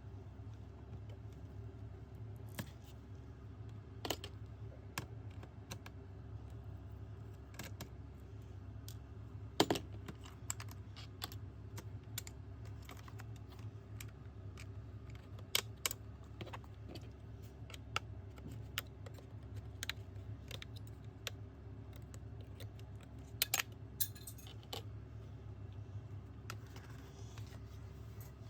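Scattered sharp clicks and taps, irregular and often a second or more apart, with a small cluster near the middle and another near the end, over a steady low hum.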